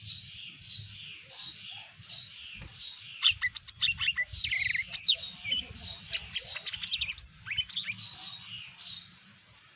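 Cucak ijo mini (small green leafbird) singing: a run of repeated chirps at about two a second, then from about three seconds in a loud burst of rapid, varied sharp notes and slurred whistles, which fades out near the end.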